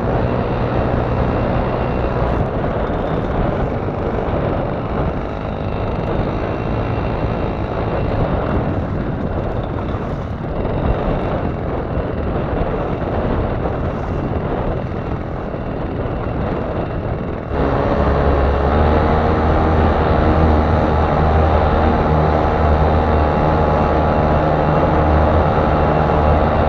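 Small outboard motor on a kayak running steadily under heavy wind noise. About two-thirds of the way in, the sound switches abruptly to a clearer, steady engine hum.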